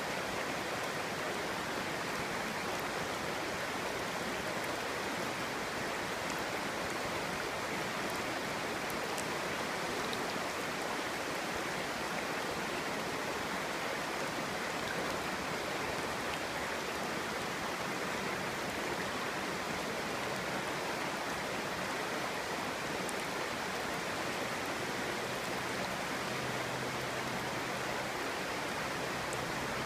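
Clear stream babbling and rushing over stones: a steady, even flow of water with no breaks.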